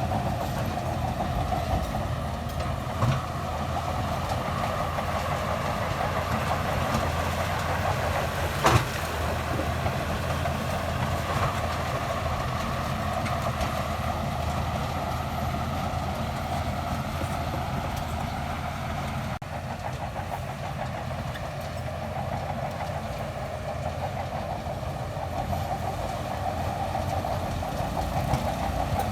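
Shantui DH17C2 bulldozer's diesel engine running steadily under work, with a sharp metallic knock about nine seconds in and a smaller one about three seconds in.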